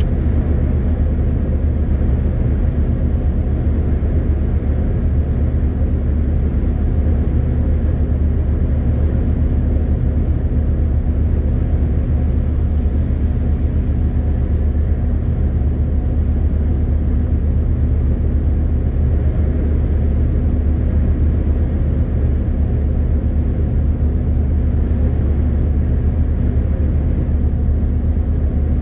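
MAN TGX 18.520 truck's six-cylinder diesel engine and tyres droning steadily at a constant road speed: a low, even hum with steady engine tones and no change in pitch.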